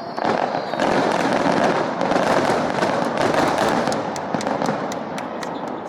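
Aerial fireworks going off in a dense run of bursts, with many sharp crackles in the second half and the level easing off slightly toward the end.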